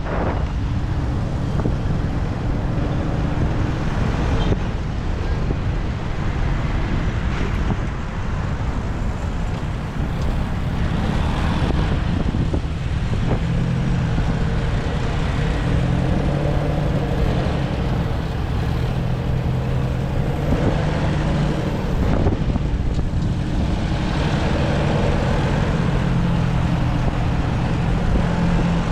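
Motorbike engine running while riding through city traffic, over steady road and wind noise; the engine note grows stronger about halfway through.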